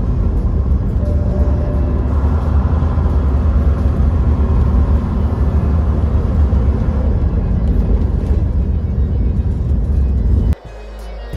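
Steady low rumble of a semi truck driving on the road, engine and road noise together. It cuts off suddenly near the end.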